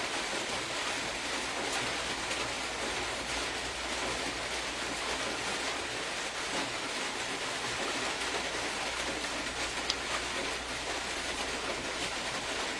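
Steady, even hiss with a single faint click about ten seconds in.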